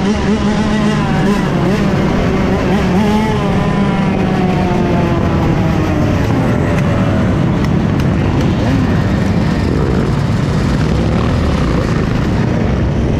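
Dirt bike engines running and revving. The pitch rises and falls several times in the first half, then settles into a steady, dense engine noise.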